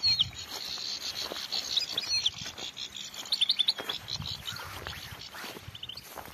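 Small songbirds calling: several brief clusters of short, high, gliding chirps. Footsteps crunch through dry grass, most noticeably in the second half.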